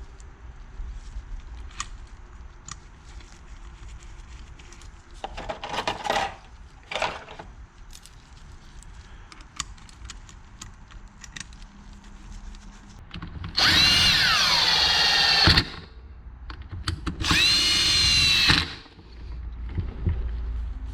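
Electric drill-driver running in the clutch cover bolts: two short whirs, then two longer loud runs near the end, the first dropping in pitch as the bolt tightens. Light clicks and taps of bolts being started by hand come before.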